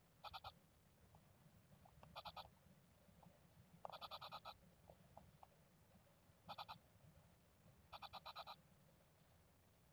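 Japanese tit calls: five short bursts of rapid, buzzy rattling notes every couple of seconds, one of them longer in the middle, heard faintly over a low steady hum.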